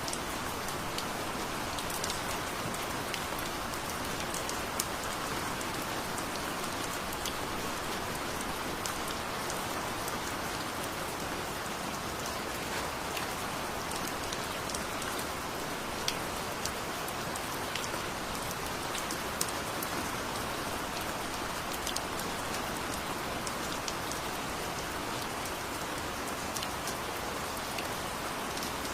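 Steady heavy rain falling, with many individual drops ticking on a hard surface.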